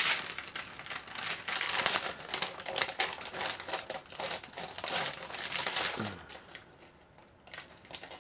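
Paper crinkling and rustling as it is handled, for about six seconds, then dying down.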